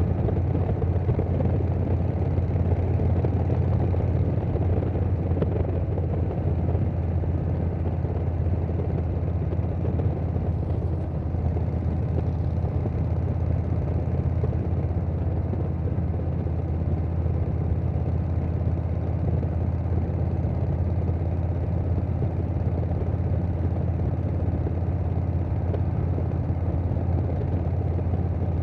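Harley-Davidson Softail Standard's Milwaukee-Eight V-twin running through a Vance & Hines Big Radius 2-2 exhaust at a steady cruise, with wind noise. The engine note and level hold even, with no revving or shifting.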